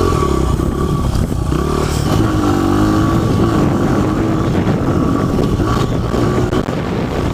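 Dirt bike engine revving hard while riding a jump, its pitch rising and dropping a few times with the throttle.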